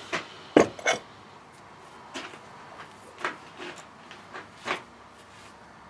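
Scattered knocks and clatters of hard objects being handled and set down on a workbench, the loudest pair close together about half a second in, then single knocks every second or so.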